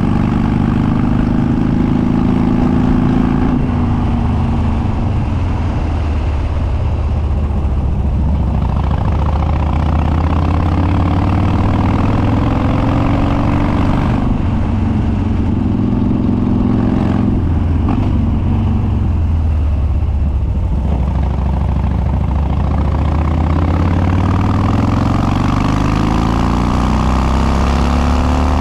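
Harley-Davidson Dyna Street Bob's Twin Cam V-twin running loud through unbaffled straight dual exhausts while riding. The engine note climbs under throttle and drops off several times, as the bike accelerates, shifts and backs off.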